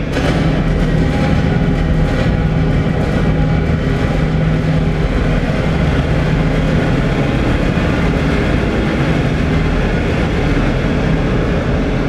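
Piezo-miked DIY noisebox of springs and a doorstop on a wooden box, processed through audio software into a loud, dense, steady drone with a low hum, and a few faint clicks in the first few seconds.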